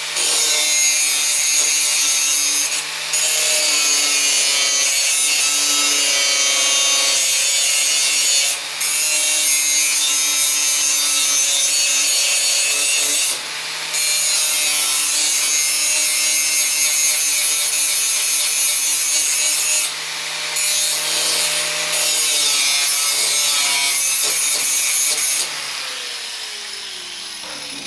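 Angle grinder grinding down welds on sheet metal, running steadily with about five brief breaks as it is lifted off the work. It stops near the end and the disc winds down with a falling whine.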